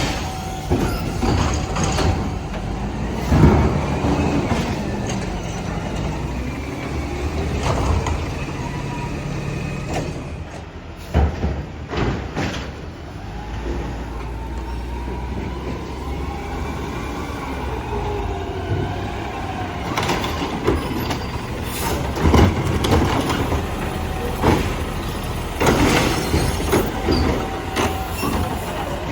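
Garbage truck engine running while it lifts and dumps trash barrels, with a whine that rises and falls as the lift works and several sharp bangs as the barrels knock against the truck.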